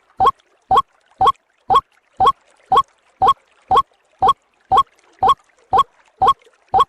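White-breasted waterhen (ruak-ruak) calling in a steady, even series of short single notes, about two a second, each bending slightly upward.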